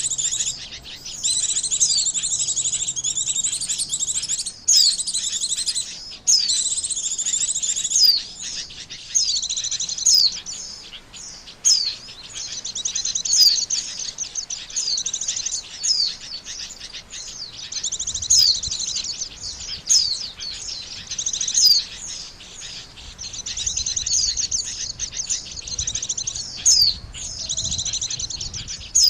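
White-eye (pleci) singing a rapid, high-pitched twittering song, phrase after phrase with short gaps, and sharp ticks between phrases; a song used as a lure call.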